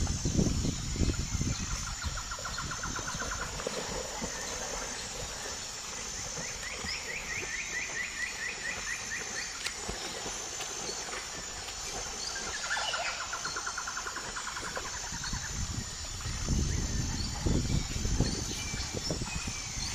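Outdoor rural ambience: a high, evenly pulsing call throughout, with three short rhythmic bird trills, one a few seconds in, one near the middle and one past the middle. A low rumble sounds near the start and again near the end.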